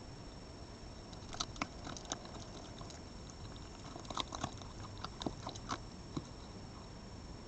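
An animal chewing and crunching food: irregular clusters of crisp clicks about a second and a half in and again from about four to six seconds, over a steady background hiss.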